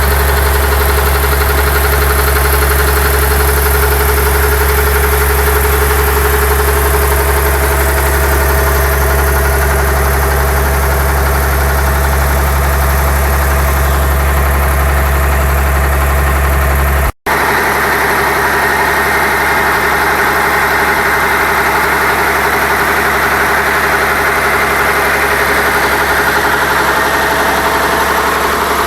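Caterpillar 250 hp diesel engine driving a slurry pump, running steadily with a deep, even drone. About two-thirds of the way in the sound cuts out for an instant, then carries on with less low rumble and more mid-range.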